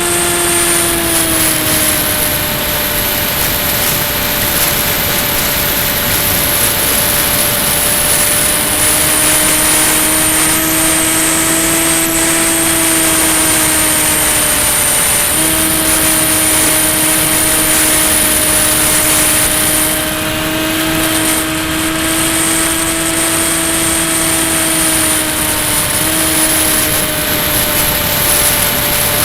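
Electric motor and pusher propeller of a Ranger EX FPV model plane in flight, with air rushing past the airframe. A steady high whine slowly rises and falls in pitch, over a lower hum that drops out for a while and shifts in pitch a few times as the throttle changes.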